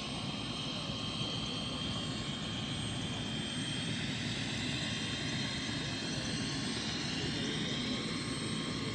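A steady engine drone with a faint high whine that slowly rises in pitch.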